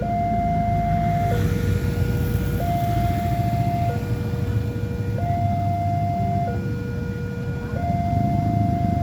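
Railway level-crossing warning alarm sounding, an electronic two-tone signal that alternates between a higher and a lower tone about every 1.3 seconds, warning that a train is coming. A continuous low rumble of vehicle engines runs underneath.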